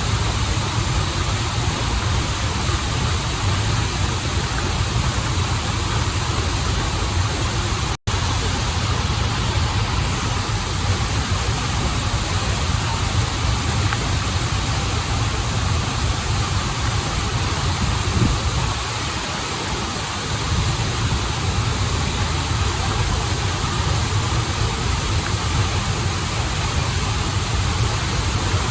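Running water of a river stream and small waterfalls, a steady rushing. It cuts out for an instant about eight seconds in.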